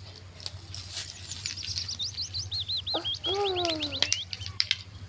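A small songbird singing a fast run of high chirping notes, with a lower, bending bird call partway through. A few sharp knocks come over a steady low hum.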